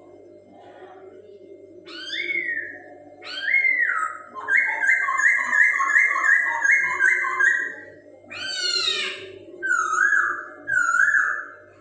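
Poksay Hongkong, a laughingthrush, singing loud clear whistled phrases: a couple of single notes, then a run of about eight quick repeated notes, a burst of falling sweeps and three more notes near the end. A steady low hum runs underneath.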